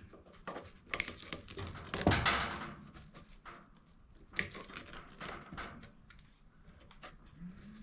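Tangled string being pulled and cut away from a push mower's blade area: scattered clicks and knocks with rustling and crinkling, the loudest click about a second in.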